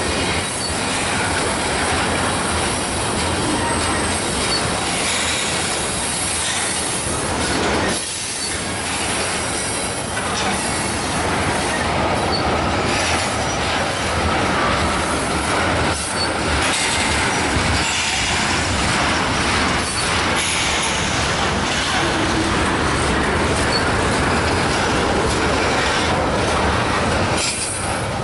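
Freight train tank cars and covered hopper cars rolling past: a steady, loud noise of steel wheels running on the rails.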